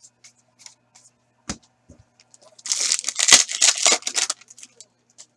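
Trading card pack wrapper being torn open and crinkled, about a second and a half of crackling near the middle, with small clicks of cards being handled around it and a single low thump before it.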